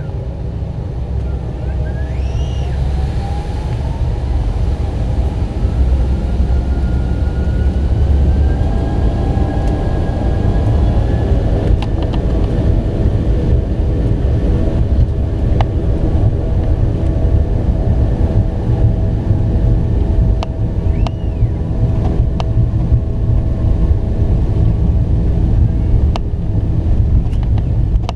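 The MD-90's two rear-mounted IAE V2500 turbofan engines spooling up to takeoff power, heard from inside the cabin. Their whine rises in pitch over the first ten seconds or so and then holds steady over a loud rumble through the takeoff roll. A few sharp clicks or rattles come through now and then.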